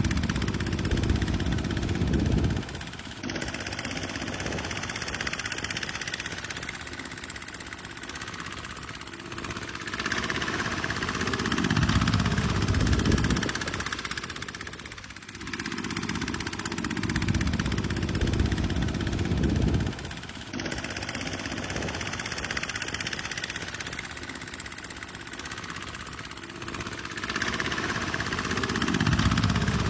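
Tractor engine running under load, its low rumble swelling and easing every few seconds.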